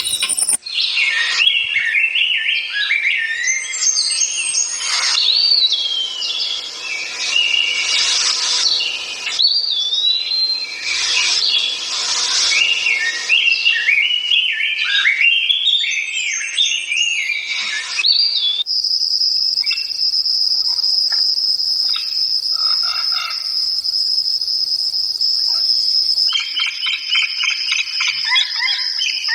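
Wild songbirds singing varied whistled, warbling phrases that glide up and down in pitch. About 19 s in, a steady high-pitched insect call, like a cricket's, abruptly takes over for several seconds, and birdsong returns near the end.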